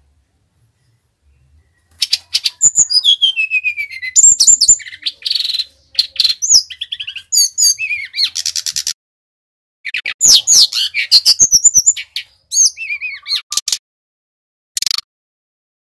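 A sikatan rimba dada coklat (brown-chested jungle flycatcher) singing. After about two seconds of quiet it gives rapid high-pitched phrases of varied, sliding and falling whistled notes, pauses briefly, sings again, and ends with one short note.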